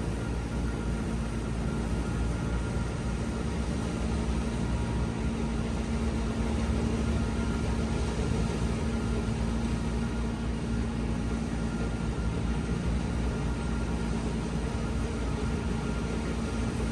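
A machine engine running steadily at constant speed, with an even hum that does not change.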